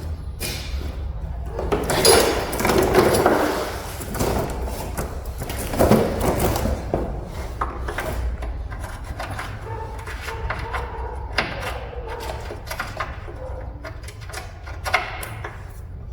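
Hand tools working on the suspension bolts: a string of sharp clicks and knocks, with louder spells of scraping and rattling about two seconds in and again around six seconds, over a steady low hum.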